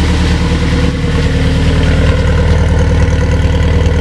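Honda S2000 inline-four engine idling steadily and loud, on one of its first runs after being rebuilt with a new manifold that has not yet been remapped.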